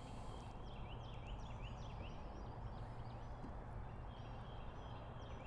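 Birds calling: runs of quick, high chirps repeated throughout, over a faint low hum.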